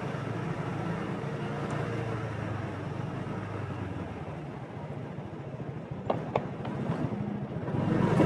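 Motorbike running steadily under the rider, with road and wind noise. Two short clicks come about six seconds in, and the sound grows louder near the end.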